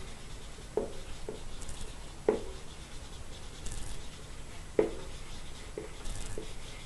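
A pause in speech: low background noise with a handful of short, soft clicks and light rubbing scattered through it.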